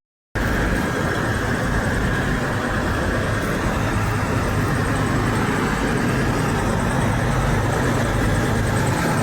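Semi truck engine idling steadily, a low hum over road noise. It cuts in after a brief gap of silence at the very start, and no horn sounds.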